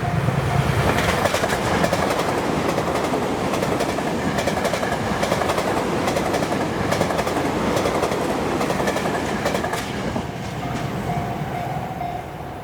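Tokyo Metro 10000 series electric train passing at speed, its wheels clattering over the rail joints in a rapid string of clicks. The sound eases off in the last couple of seconds as the train goes by.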